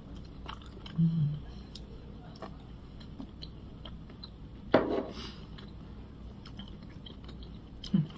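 A person chewing a mouthful of food with faint wet mouth clicks. There is a short low hum about a second in, and a brief louder vocal noise just before the middle.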